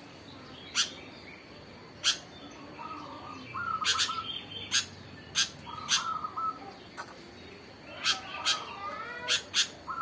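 Short bird chirps recurring every few seconds, mixed with sharp clicks and taps from small cups being handled on a wooden hand-held bird perch stand.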